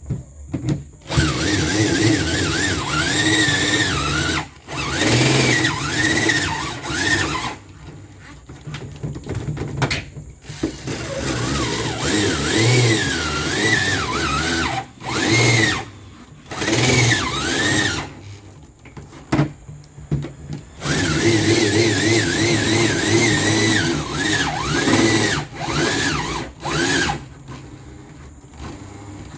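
Power drill run in repeated bursts of one to four seconds, about eight in all, with a whine that wavers up and down in pitch as the trigger is worked, boring holes in an old fridge.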